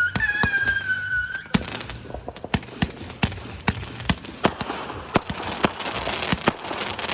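Aerial fireworks going off: a string of sharp bangs at irregular intervals. A high whistle sounds for the first second and a half. From about five seconds in there is a dense crackling.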